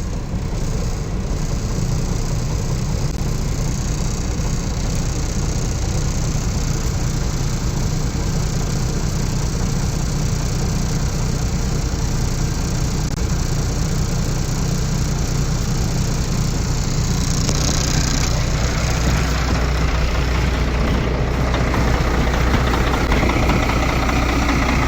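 Peterbilt 378 semi truck's diesel engine idling just after a cold start at about −20 °C, preheated by a Webasto heater. Its note changes and grows deeper about seventeen seconds in.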